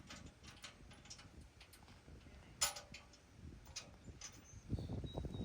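Scattered metal clicks and clinks of tools and bolts during work on a vehicle bumper. One sharp clink rings briefly about two and a half seconds in, and low knocks and handling thumps follow near the end.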